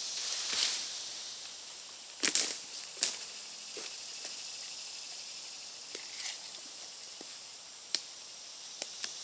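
A few sharp snaps and cracks of twigs and brush breaking underfoot, the loudest two about two and three seconds in, over a steady high insect chorus.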